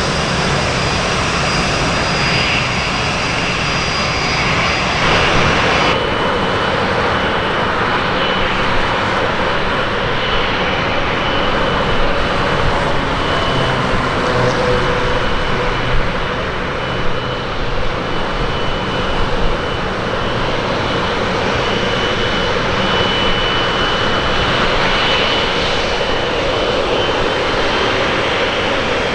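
Jet airliner engines running loud and steady, a rushing roar with a thin high whine over it; a second, higher whine drops out about six seconds in.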